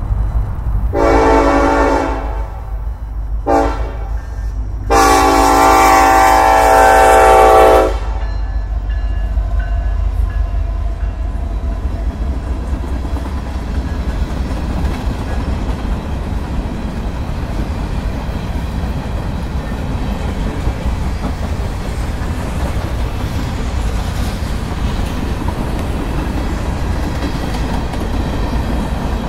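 Norfolk Southern freight train's locomotive horn sounding for a grade crossing: a long blast, a short one and a longer one, the close of the crossing signal. The train then rolls past with a steady rumble and clatter of freight-car wheels on the rails.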